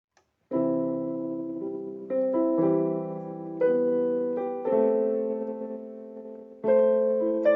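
Solo piano playing slow chords as intro music: each chord is struck and left to fade before the next, about every one to two seconds.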